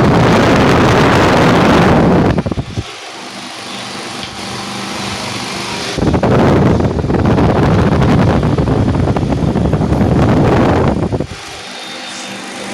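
Mondial Turbo VTX 8-blade desk fan running at its highest speed: its airstream rushes loudly over the microphone in two long gusts, with the fan's steady humming tone heard in the quieter spells between.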